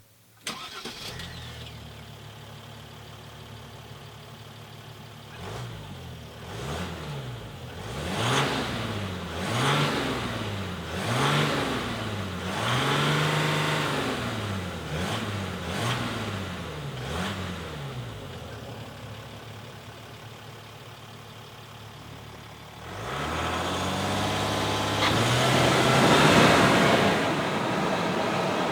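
Mercedes-Benz X350d's 3.0-litre turbo-diesel V6 idling, then revved in a series of about seven short blips, each rising and dropping back, one held a little longer. It settles back to idle, then near the end revs up into a long, louder stretch of high revs.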